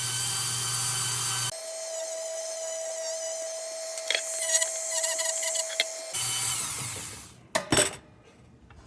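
A small power tool runs steadily, its sound changing after about a second and a half to a thinner whine with scattered clicks for some five seconds. It then returns to the first note briefly and winds down about seven seconds in. Two sharp knocks follow.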